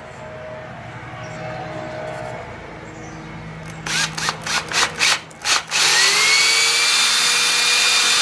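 Power drill enlarging a hole in a wooden toy part. It is triggered in several short blips about four seconds in, then runs steadily with a whine that rises as it spins up.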